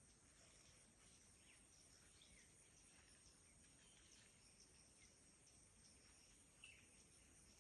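Faint forest ambience: a steady high-pitched insect drone with a few scattered short bird chirps, the clearest about six and a half seconds in.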